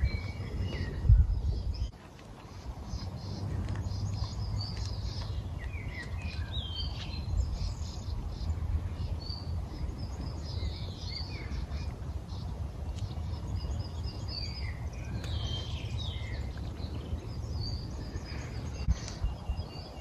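Small birds chirping and calling on and off over a steady low rumble, with a brief thump about a second in.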